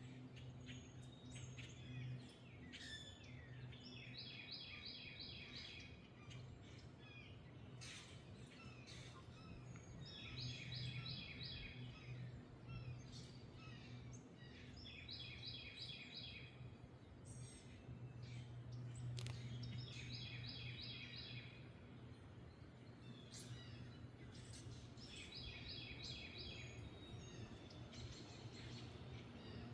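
Songbirds singing faintly, one repeating the same short, rapid trilled phrase about every four to five seconds, with scattered chirps from others. A steady low hum and outdoor noise sit underneath.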